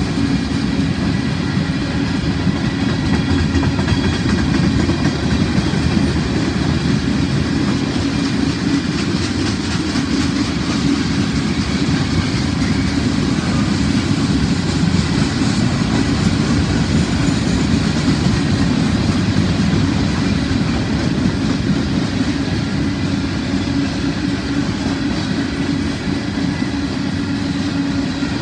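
Freight train of covered hopper cars and centerbeam flatcars rolling steadily past, its wheels on the rails making a continuous low rumble.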